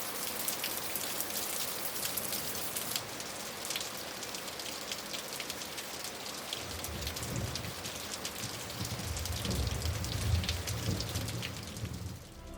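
Steady rain falling, a dense patter of drops. A low rumble comes in underneath from about halfway.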